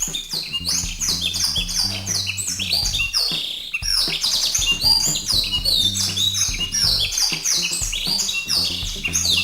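Dense, continuous chirping and chattering of many small songbirds, a bird-lure recording of rapid overlapping short calls, set over background music with a steady low bass line.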